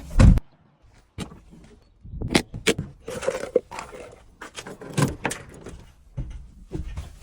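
A loud thump, then after a short pause a string of sharp clicks and knocks with some rustling, like objects being handled.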